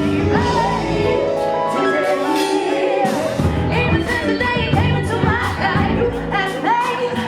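Live band music with a voice singing over it.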